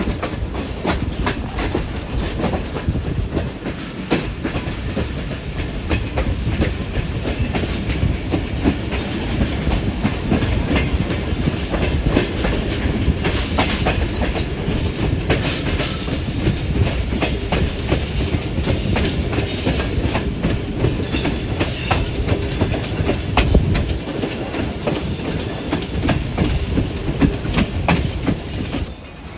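Hazara Express passenger train running at speed, a steady rumble with its wheels clattering over the rail joints.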